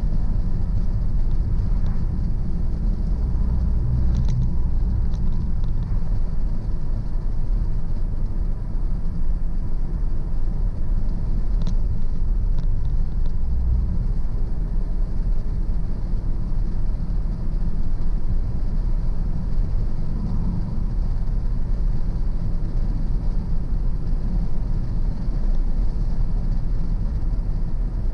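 Car driving along a road: a steady, loud low rumble of engine and tyres, with a few faint ticks.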